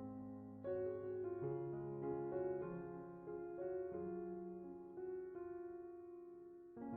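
Slow background piano music, with long held notes and a new chord struck about a second in.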